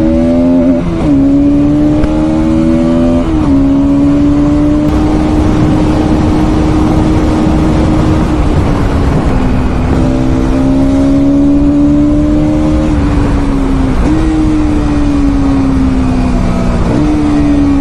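Bajaj Pulsar NS200's single-cylinder engine under load at highway speed. The engine note holds steady for long stretches, dips sharply and climbs back several times, and jumps up once, over a constant rush of noise.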